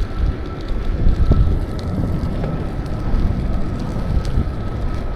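Wind buffeting the microphone of a camera on a moving bicycle, a dense low rumble with scattered light clicks and rattles and a faint steady high whine underneath.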